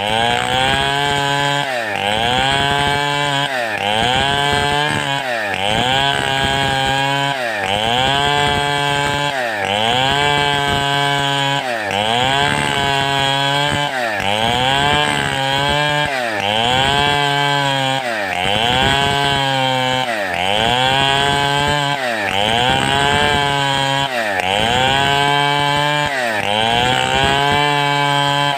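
Large 070-class two-stroke chainsaw cutting wood with a rocking technique. The engine speed dips sharply and recovers to a high, steady note about every two seconds as the bar is swung through the cut under load.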